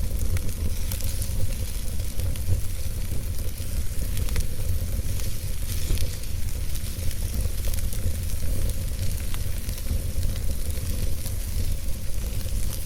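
Campfire burning with a steady hiss and scattered crackles and small pops, over a constant low rumble.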